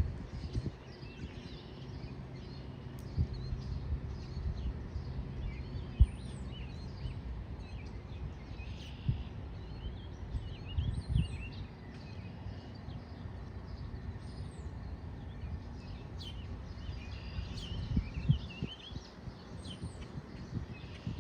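Many small bird calls, short chirps and thin rising-falling whistles, coming again and again over a low outdoor rumble, with a few dull thumps.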